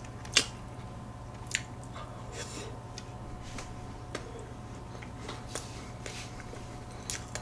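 Close-miked chewing of a mouthful of soft cheesecake, quiet and wet, with a few light clicks; the sharpest comes about half a second in, from the metal spoon. A faint steady hum runs underneath.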